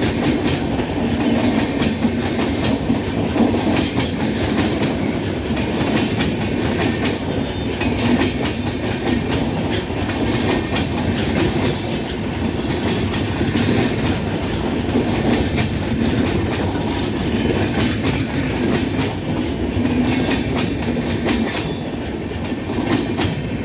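Humsafar Express passenger train running on the rails, a steady rumble with frequent clicks of wheels over the track, and a brief high squeal about twelve seconds in.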